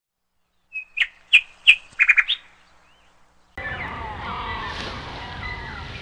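A bird gives a quick series of about six sharp chirps. After a short pause, a chorus of many birds singing over steady background noise starts abruptly.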